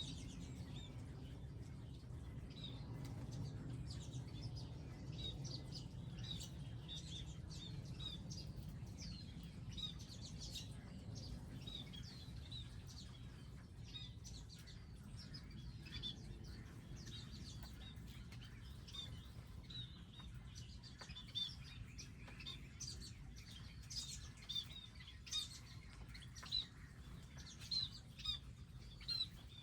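Small wild songbirds chirping and calling at a garden feeding station: many short high chirps over a low steady background rumble, with a run of louder, sharper chirps in the last third.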